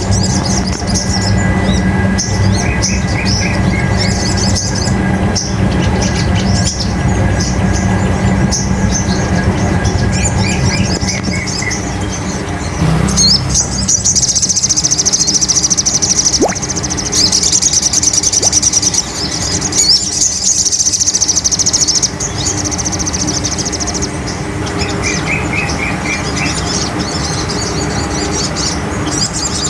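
Sogon bird song: rapid high-pitched chirping and trilling that grows dense and loud through the middle, a lure recording played to provoke a caged sogon. A steady low hum runs underneath.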